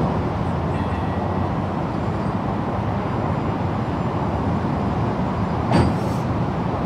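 Steady running noise of a stationary train standing at the platform, with one sharp clank near the end.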